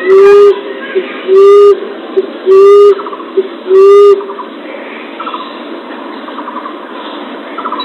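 Common emerald dove (punai tanah) cooing: a low, even coo about half a second long, repeated about every 1.2 seconds, four times, then stopping. Afterwards only a faint hiss with soft ticking remains.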